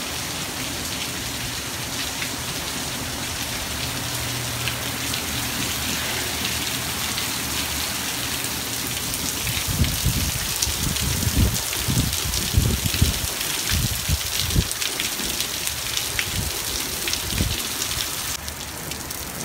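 Heavy rain falling steadily in a thunderstorm, an even hiss throughout. About halfway through there is a stretch of uneven low rumbling and thumps that lasts a few seconds.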